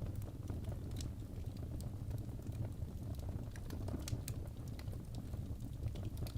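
Wood fire burning in a fireplace: a steady low rumble of the flames with irregular sharp crackles and pops from the burning logs, a few of them louder about a second in and around four seconds in.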